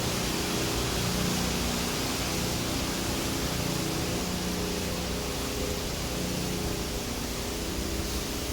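Steady road noise of a car driving: a continuous hiss with a low, even engine hum underneath.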